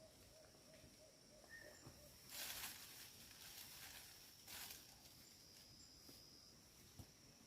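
Quiet forest ambience: a steady high-pitched insect drone, with two brief rustles about two and four and a half seconds in.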